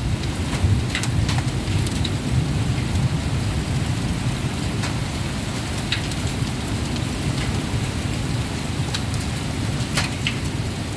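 Heavy thunderstorm rain pouring steadily over a continuous low rumble, with scattered sharp ticks of drops striking hard surfaces.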